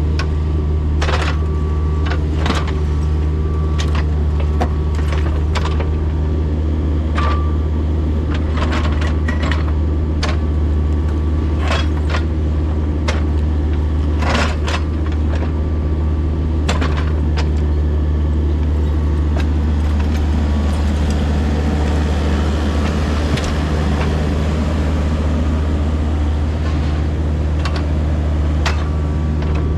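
Heavy demolition machine's diesel engine running steadily under load, with irregular sharp clanks and knocks of steel against concrete and debris as footers are broken out. A scraping hiss joins in about two-thirds of the way through.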